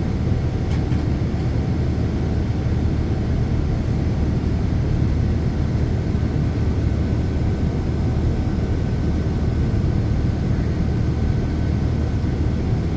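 Steady cabin noise inside a Boeing 787-9 airliner in flight: an even, deep rumble of its Rolls-Royce Trent 1000 engines and the airflow, unchanging throughout, with a faint thin tone above it.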